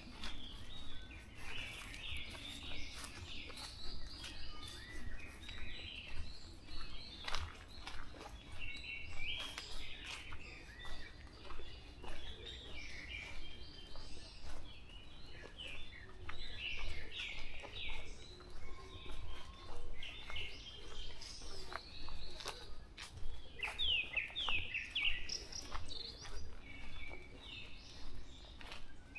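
Several wild songbirds singing and chirping in short repeated phrases, one after another, with scattered light clicks and a steady low rumble underneath.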